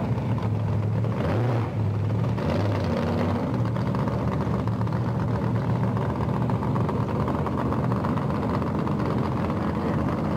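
Supercharged 1967 Ford Mustang drag car's engine idling steadily as the car creeps toward the starting line.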